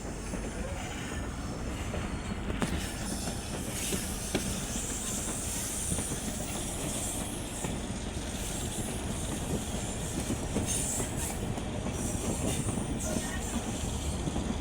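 Passenger train running along the track: a steady rumble with scattered clicks of the wheels and a high squeal of the wheels at times.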